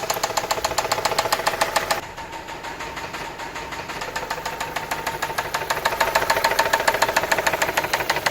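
Car engine running with a constant, fast, even knocking from the bottom end: connecting-rod knock from worn rod bearings with play between the rod and the crankshaft. The knocking drops in loudness about two seconds in, then builds back up.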